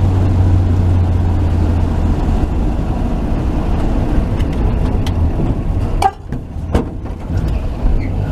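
1949 Chevy truck engine running warmed up and smooth under way, with the drive-by hum of the cab. About six seconds in the engine note dips briefly with a couple of clicks, then picks back up.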